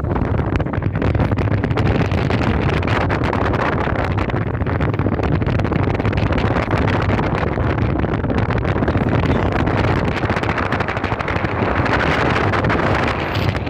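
Strong sea wind buffeting the microphone on a small fishing boat, a steady loud rushing rumble.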